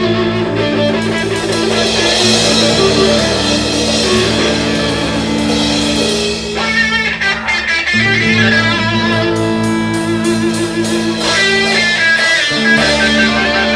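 Live rock band playing an instrumental passage with electric guitar leading over bass and drum kit.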